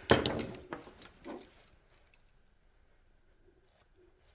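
Small parts and hand tools clicking and clattering on a workbench: a sharp cluster of clicks and rustle right at the start, a lighter click just over a second later.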